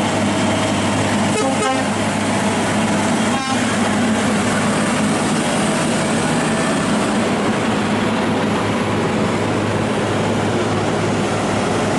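Scania R580's V8 diesel engine running steadily while hauling a heavy load, with a couple of brief clicks early on.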